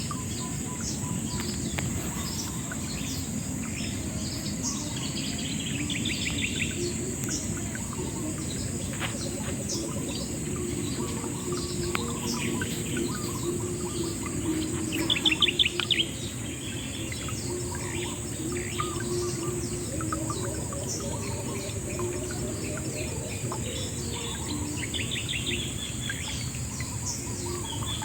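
Several birds chirping and singing in short trills, the loudest about fifteen seconds in, over a steady high drone of insects and the low, even rush of river water.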